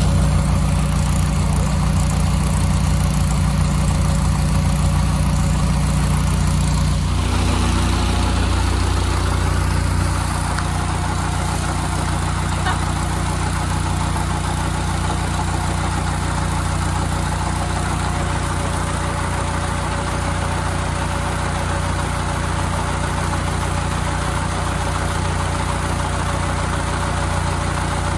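Farm machinery engine running steadily close by. Its note drops a little about seven seconds in, and it settles slightly quieter a few seconds later.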